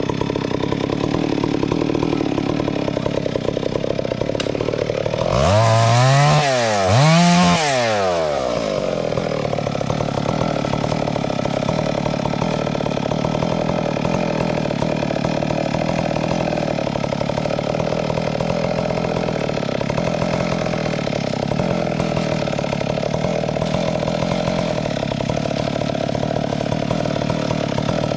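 Chainsaw engine running steadily at speed, with two quick revs, each rising and falling in pitch, about six and seven seconds in; the revs are the loudest part.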